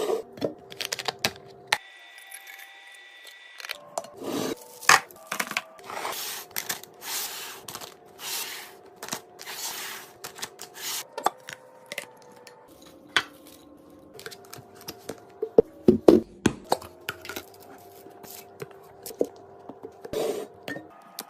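Food packaging and containers being handled while a pantry is restocked: rustling and tearing of packets, with many sharp clicks and knocks as items and lids are set down.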